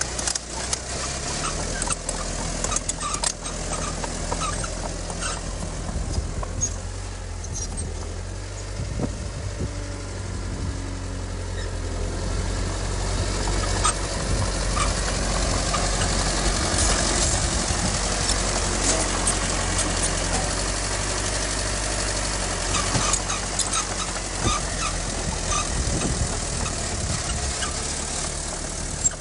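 Heavy diesel engine of earthmoving machinery running steadily, with scattered sharp clicks and clanks; it gets somewhat louder about halfway through.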